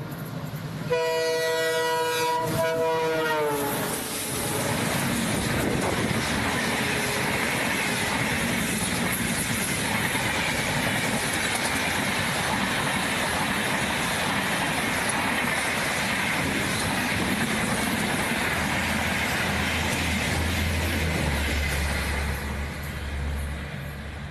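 Indian Railways diesel locomotive's horn sounding as the train approaches; the horn's pitch drops about three seconds in as it passes, then the coaches rush by at speed with wheel clatter on the rails. The sound cuts off suddenly at the end.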